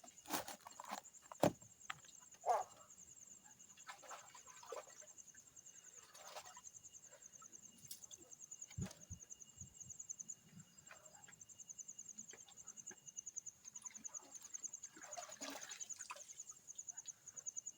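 Faint, steady, high insect trilling in rapid pulses, with scattered clicks and snaps.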